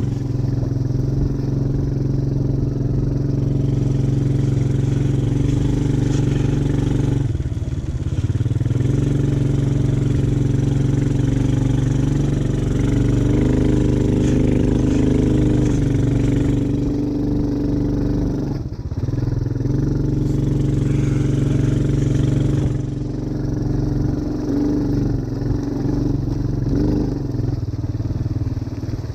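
ATV engine running under load on a muddy trail, its pitch rising and easing with the throttle. It drops off briefly twice, about a quarter and about two-thirds of the way through.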